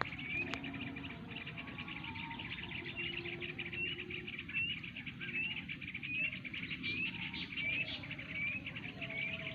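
A flock of yellow-vented bulbuls (trucukan) chattering as they gather to roost. It is a dense, continuous twittering with a short rising call that repeats roughly once a second.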